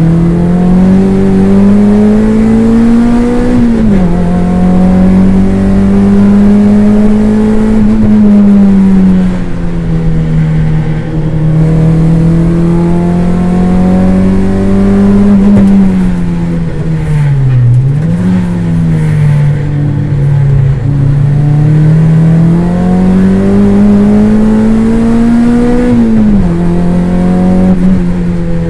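Toyota MR2 race car's engine heard from inside the cabin under racing load. The revs climb steadily and drop sharply at an upshift about four seconds in and again near the end. They fall away around eight seconds and dip deeply for a moment at about seventeen seconds before climbing again.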